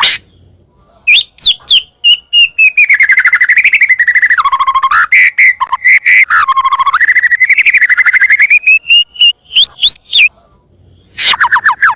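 White-rumped shama (murai batu) singing loudly: a few clear whistled notes, then from about two seconds in a long rapid trill of repeated notes that drops lower twice in the middle, and near the end a quick run of sweeping whistles. This is the full, vigorous song used as a lure to set other shamas singing.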